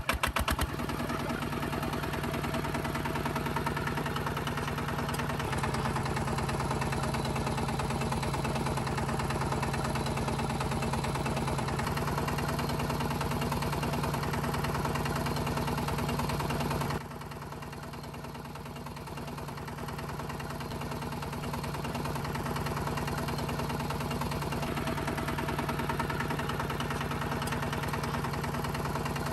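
Small motor of a home-made miniature tractor running with a steady hum. It drops quieter about seventeen seconds in and builds back up a few seconds later.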